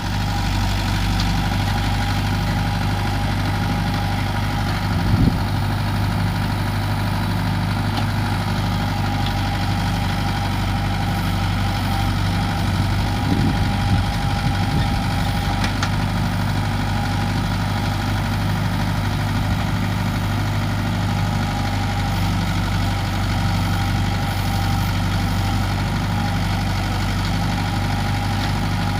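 Farm tractor's diesel engine running steadily at an even speed, with a couple of brief louder knocks about five seconds in and again around thirteen to fourteen seconds.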